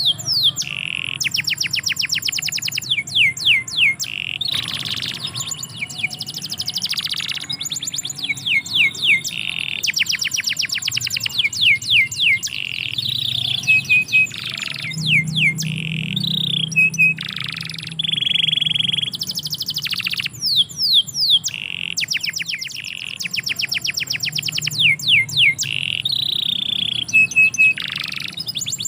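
Domestic canary singing on and on: long rolling phrases of rapid repeated falling notes and trills, broken by short pauses. A faint low hum runs underneath.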